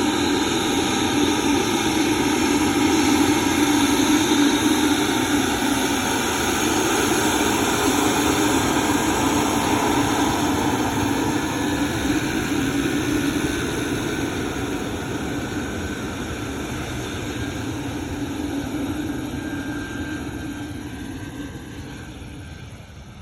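Aircraft engine noise as a plane passes, loudest about four seconds in and then fading steadily away.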